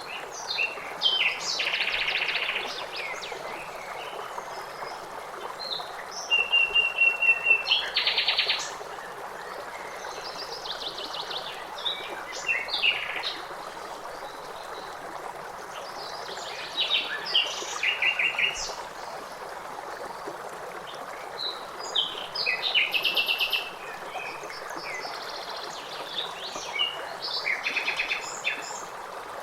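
Songbirds singing short trilled and chirping phrases every few seconds, over the steady rush of a running stream.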